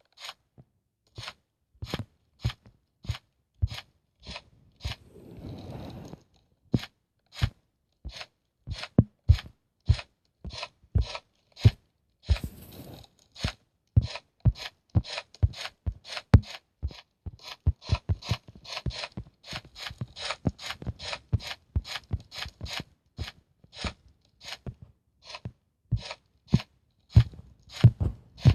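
Homemade slime being squeezed and pressed by hand, giving sharp popping clicks about two a second, with a longer wet squishing stretch about five seconds in and again near twelve seconds.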